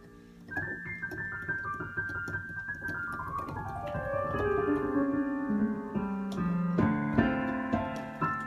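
Piano playing a fast run of notes that starts about half a second in and steps down from high to low over a few seconds, then moves into louder repeated notes and chords.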